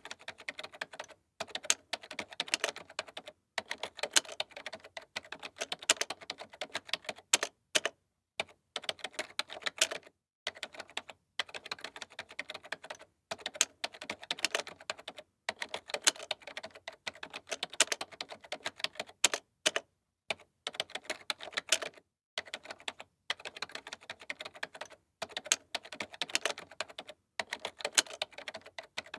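Typing on a computer keyboard: quick runs of sharp key clicks, broken by short pauses every second or two.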